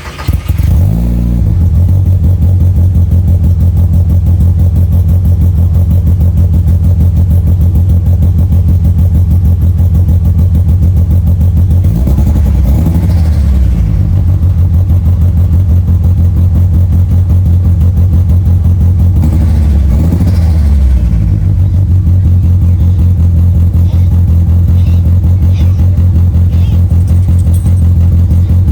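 VW Mk4 Jetta engine starting up through a new 3-inch full exhaust with muffler, catching within about a second and settling into a steady idle. It is revved briefly twice, once a little before the middle and again about two-thirds of the way through, each time rising and falling back to idle.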